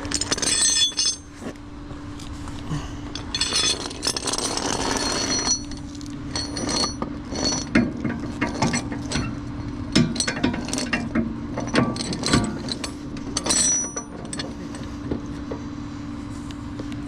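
Tow truck's chain and hook clanking and rattling against metal as the hook is worked into place under a vehicle, with a noisy rattling stretch about three and a half seconds in. A steady low hum runs underneath.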